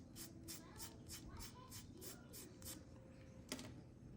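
Faint, rapid scratching strokes, about four a second, as of something rubbed back and forth on paper or plastic; they stop about three seconds in, and a single sharp click follows.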